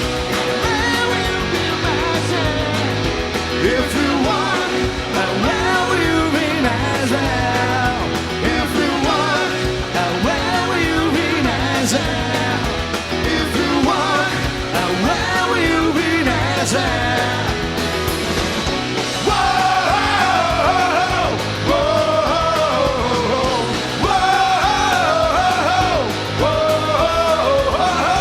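Live rock band playing loud guitar-driven rock with a steady beat and singing; a strong vocal line stands out over the band in the last third.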